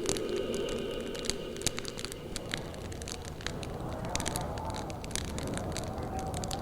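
Branches burning in a fire, crackling with irregular sharp snaps and pops over a steady low rumble.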